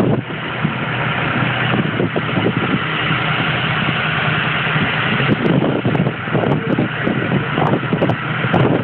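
Tow boat's engine running steadily, with wind gusting on the microphone.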